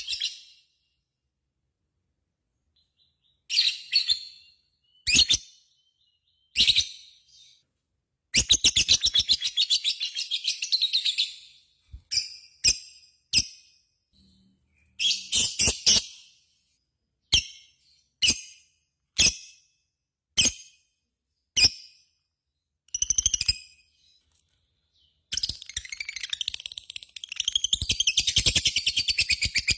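Lovebird calling after about three seconds of quiet: short bursts of rapid, shrill chattering, a longer chattering run about a third of the way in, and another long unbroken run starting near the end. This is the long 'ngekek' chatter that lovebird keepers prize.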